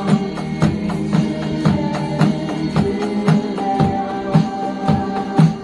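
Pop-rock music with a drum kit keeping a steady beat: regular sharp hits over held guitar and keyboard notes.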